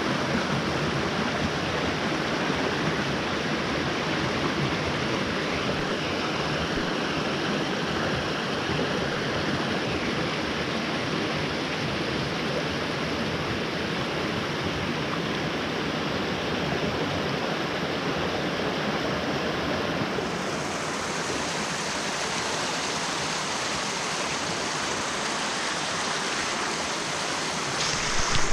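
Mountain stream running, a steady, unbroken rush of water that turns brighter and hissier about two-thirds of the way through.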